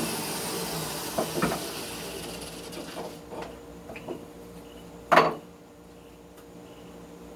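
A power wire-brush motor winding down and fading out, followed by a handful of scattered knocks and clunks of tools and parts being handled; the loudest is a single sharp knock about five seconds in.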